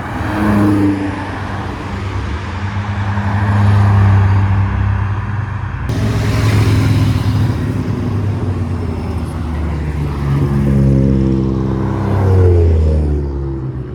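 Car engines passing at low speed one after another as they pull away, each swelling louder and fading. Near the end one engine revs up, its note climbing, then drops off.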